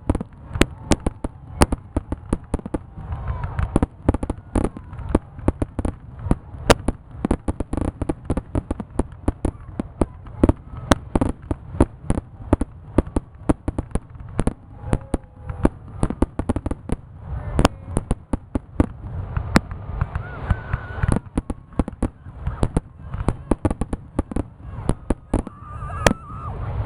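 Aerial fireworks going off in a dense, continuous barrage, several sharp bangs a second over a low rumble, with crackling in between.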